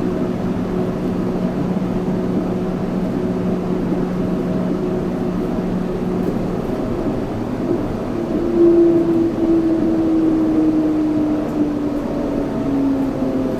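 Yurikamome 7300-series rubber-tyred automated train running, with rolling noise and a steady hum. A little past halfway a motor whine comes in and falls steadily in pitch to the end, as of the train slowing.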